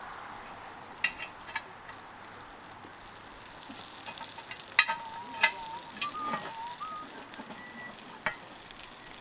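Butter and egg frying in a forged iron pan over a campfire, a steady sizzle that grows louder in the second half. A few sharp clinks, and a brief wavering whistle-like tone in the middle.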